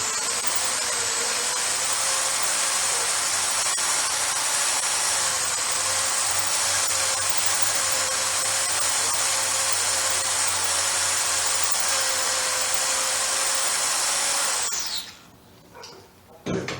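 Electric drill running steadily as a number 6 bit cuts a pilot hole for a 1/4-20 tap into the end of a small engine's crankshaft. About fifteen seconds in the drill stops and its motor winds down in pitch.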